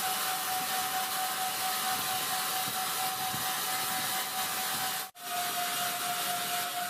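Large wood-sawing machine running and cutting timber: a steady hiss with a constant whine. The sound drops out for a split second about five seconds in, and the whine sits a little lower afterwards.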